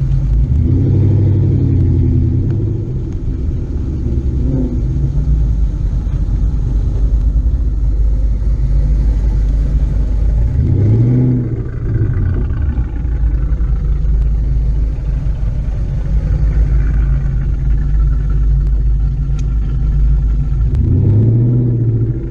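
Car engine and exhaust running with a steady low rumble, rising in pitch as it accelerates near the start, again about halfway through and once more near the end.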